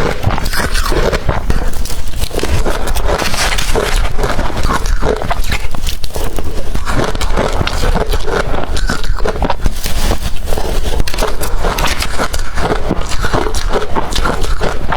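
Close-miked crunching of blender-crushed ice being bitten and chewed: a dense, continuous crackle of small ice pieces breaking between the teeth.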